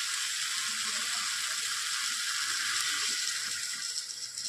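Chicken and masala sizzling in a hot kadhai, a steady hiss. Near the end water is poured in and the sizzle dies down.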